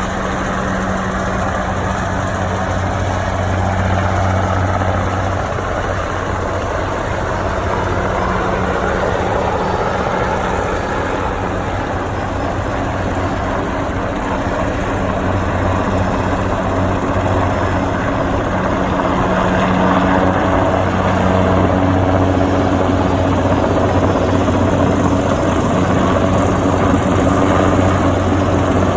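Helicopter running steadily, a constant low rotor and turbine drone over a broad rushing wash, a little louder from about two-thirds of the way in.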